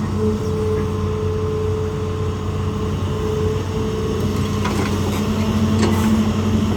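Hitachi ZAXIS200 excavator's diesel engine running steadily at working revs, with a few short knocks about two-thirds of the way through.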